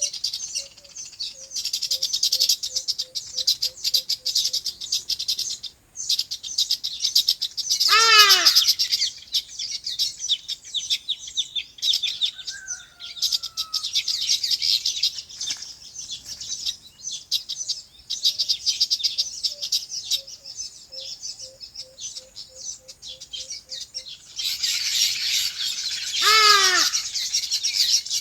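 Many birds chirping in a dense, continuous chatter. Two loud calls slide sharply down in pitch, about eight seconds in and again near the end, and a soft run of low, evenly repeated notes comes near the start and again in the second half.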